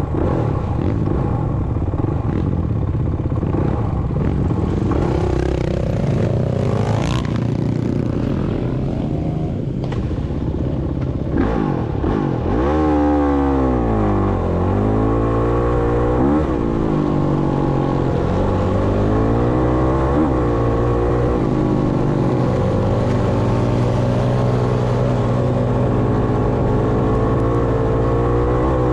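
Dirt bike engine running close by, mixed with clattering for the first dozen seconds. Then one clear engine note drops, rises again with a throttle blip and settles to a steady run with a few short blips.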